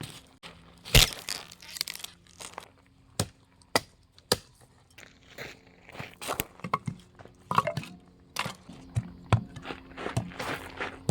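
Dry sticks and branches cracking and snapping as firewood is broken up, a series of sharp irregular cracks with crunching in between, the loudest about a second in.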